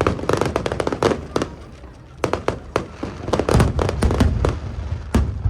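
Aerial fireworks bursting in quick succession: dozens of sharp bangs and crackles overlapping over a low rumble, ending with one last loud bang.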